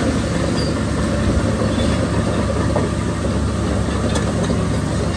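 Diesel engine of heavy earthmoving machinery running steadily, a loud low drone.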